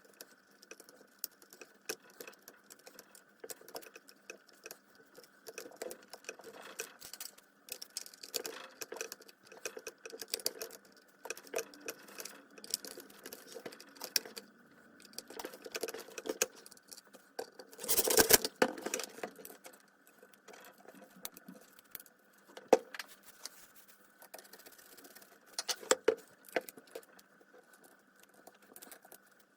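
Small metal parts and hand tools being handled during work on a circular saw: scattered light clicks, taps and rattles, with a louder cluster of knocks about two-thirds of the way through.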